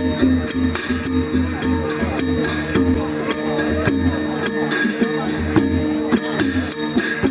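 Dance music from a traditional percussion ensemble, with held low gong-like tones under cymbal clashes on a steady beat of about three strokes a second.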